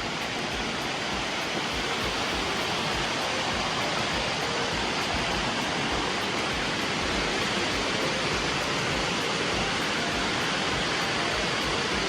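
Dunn's River Falls cascading water rushing steadily over the rock terraces, heard up close.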